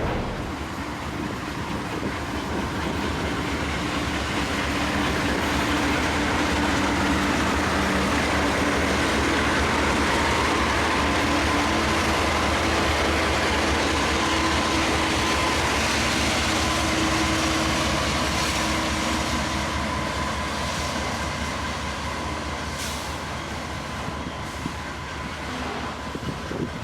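Freight train running past on the rail line, a steady rumble of wheels and cars with a few steady tones in it, loudest around the middle and easing off toward the end.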